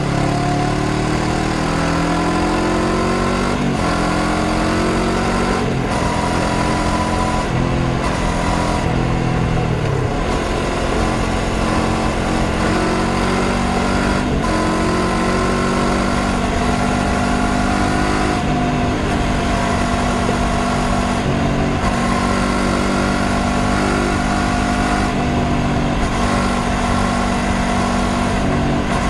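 Honda CBR500R's parallel-twin engine pulling on the move, its pitch climbing and then dropping back at each upshift several times in the first half, then holding a steadier note, with wind rushing past.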